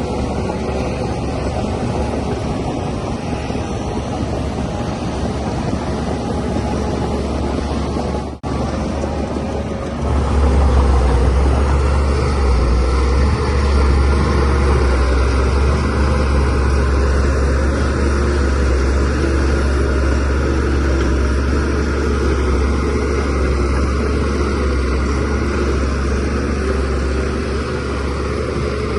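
Diesel engine of a DH17C3PRO bulldozer running steadily. About eight seconds in the sound breaks off for an instant, and from about ten seconds in the low rumble is louder and stronger.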